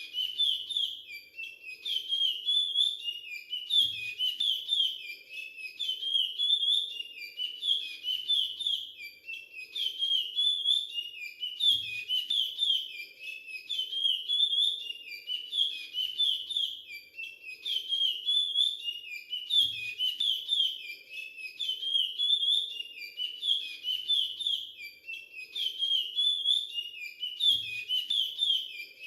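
Male chestnut-bellied seed-finch (curió) singing a Timbira 'virado clássico' dialect song: clear whistled phrases repeated over and over in quick succession, with only brief breaks.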